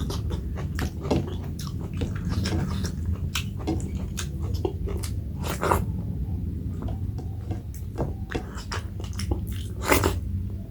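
Close-up eating sounds: chewing with irregular wet mouth clicks, and a louder click near the end, over a steady low hum.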